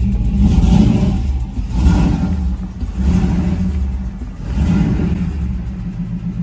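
V8 engine swapped into a Tesla, running and being revved, its note swelling and dropping back every second or so.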